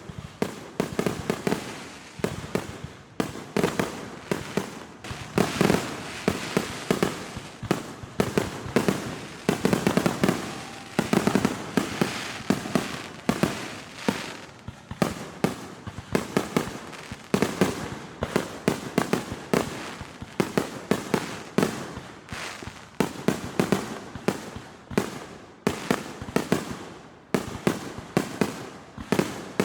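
Consumer fireworks going off in a rapid, continuous barrage: sharp bangs and cracks several times a second with no pause, swelling louder in clusters.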